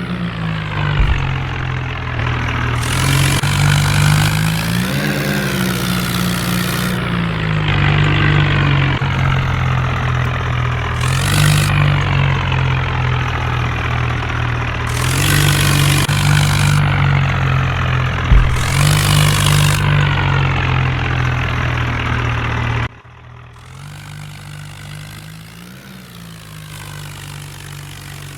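Swaraj 855 tractor's diesel engine running hard, its revs rising and falling again and again, with bursts of rushing noise over the revs. About 23 seconds in, the sound drops suddenly to a much quieter, steady engine running.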